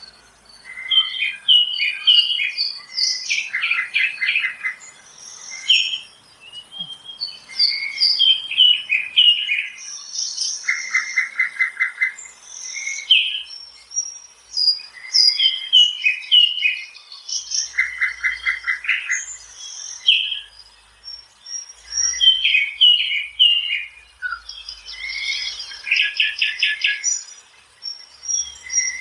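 Songbirds singing: many short chirps and whistles, with a fast trill of evenly spaced notes coming back every several seconds.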